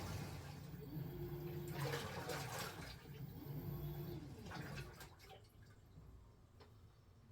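LG top-loading washing machine churning its load of water, with the drum motor whining up and down twice as the pulsator drives the water back and forth; the churning dies down toward the end.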